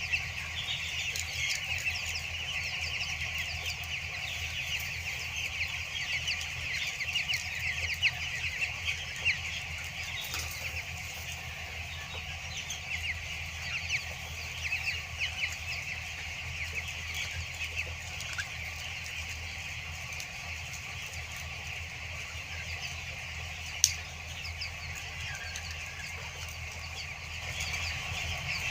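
A large flock of two-week-old broiler chicks peeping without pause, many high chirps overlapping, over a steady low hum. A single sharp click sounds late on.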